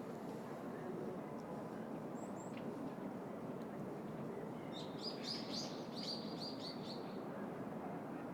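A small bird sings a quick trill of about eight repeated high notes about five seconds in, with a few faint single chirps earlier. Under it runs the steady low hum of city noise in an urban park.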